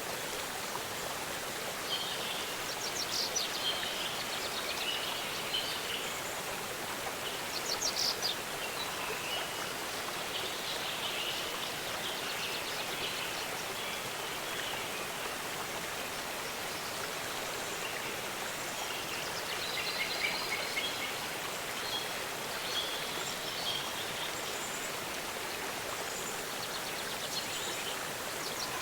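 Steady rush of a waterfall, with birds chirping over it in several short bursts of high calls.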